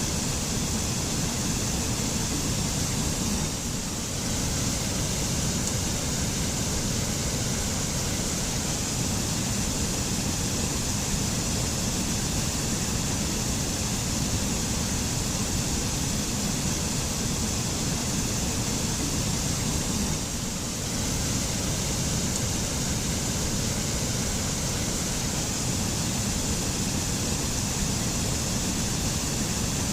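Mountain waterfall: a steady rush of falling, splashing water, with two brief slight dips in loudness.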